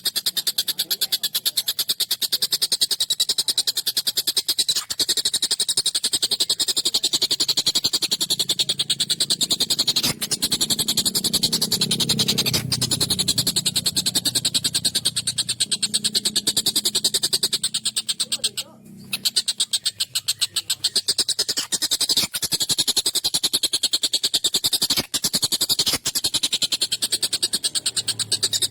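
Tengkek buto kingfisher giving a rapid, harsh chattering call repeated almost without a break, with a few brief pauses and one longer pause past the middle.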